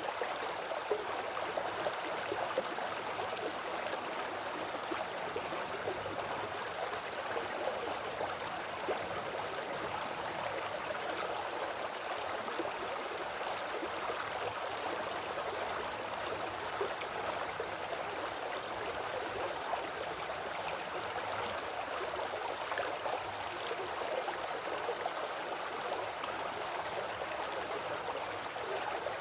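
Woodland creek flowing steadily, a constant babble of running water.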